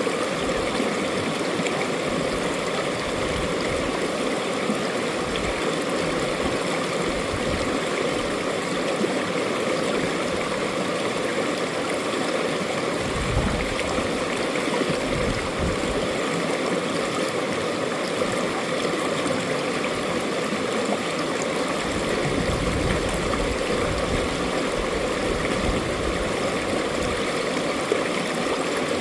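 A mountain-valley stream running over rocks, a steady, even rush of water with a little gurgling.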